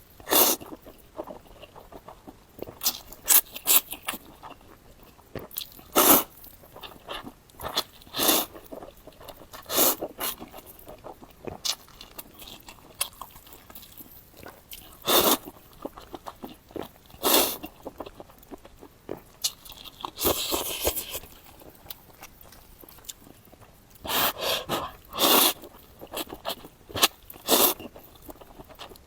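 Close-miked mouth sounds of eating noodles: slurps and chewing in irregular loud bursts a second or two apart, with one longer hissing sound about twenty seconds in.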